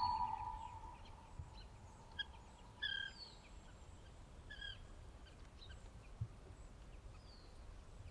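Faint, sparse bird chirps: short single calls every second or so. A long held tone fades out over the first second.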